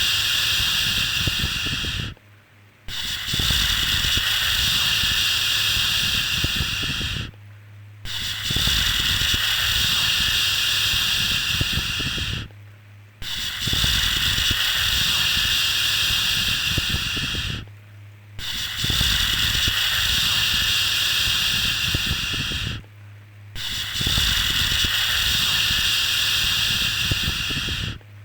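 A long, hissing 'shhh' shushing sound, used to soothe a baby to sleep, repeated in even strokes of about four and a half seconds with a short break between each, about every five seconds.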